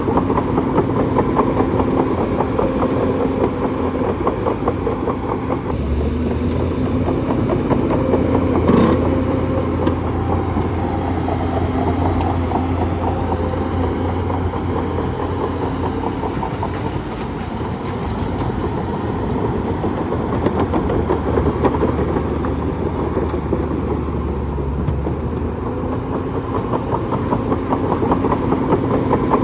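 Bulldozer's diesel engine running steadily with a fast pulsing beat. A deeper drone sits under it for most of the middle, and there is one sharp clank about nine seconds in.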